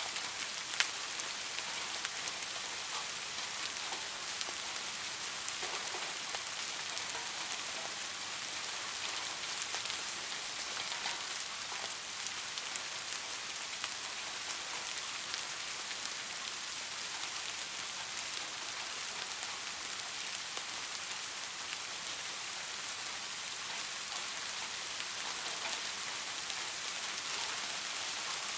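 Steady rain falling, an even hiss with many individual drops pattering on a surface and one sharper drop about a second in.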